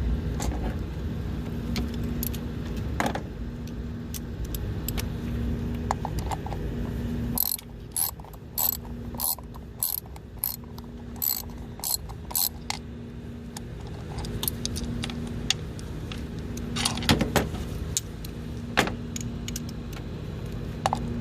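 Socket ratchet wrench clicking in short bursts about twice a second as it is worked back and forth, tightening bolts or screws on the engine, with a few scattered clicks and taps around it.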